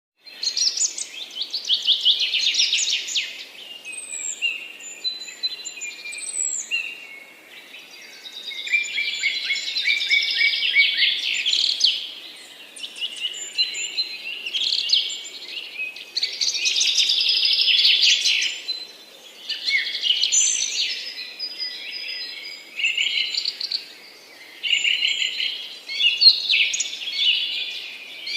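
Birds chirping and trilling in high, rapid runs, in bursts of a few seconds each with short lulls between, and a few thin whistled notes above.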